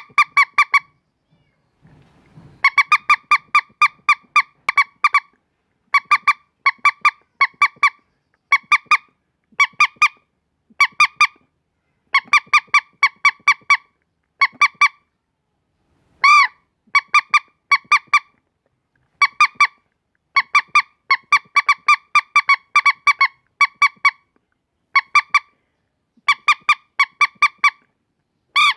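Lure call of a bantiung (mandar, a rail): short nasal honking notes in quick clusters of about four to eight, roughly five notes a second, each cluster after a brief pause, with one longer note about halfway through.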